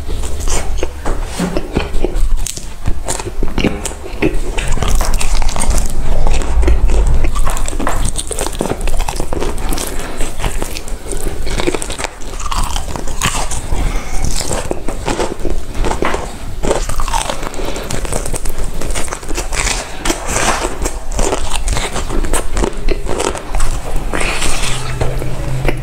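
Close-miked eating: repeated crunchy bites and chewing of crispy fried food, many irregular crunches one after another.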